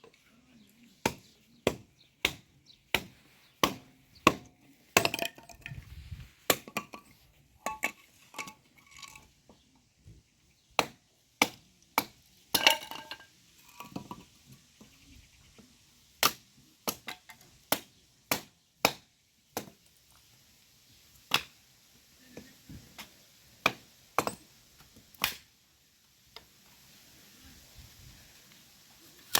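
Irregular sharp clicks and knocks, about one or two a second, a few with a short metallic ring, thinning out after about twenty seconds.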